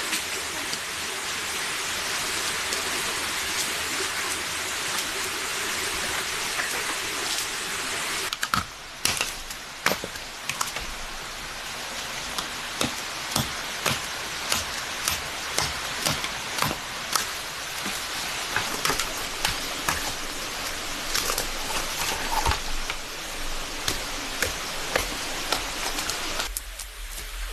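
Steady rushing water. About eight seconds in, a long run of sharp, irregular knocks starts, often one or two a second, and goes on nearly to the end.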